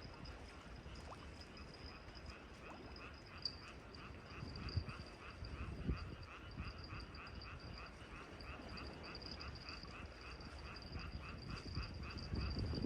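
Seaside ambience: a low wash of the sea under a steady high insect trill and a small animal's rapid repeated call, about three or four calls a second.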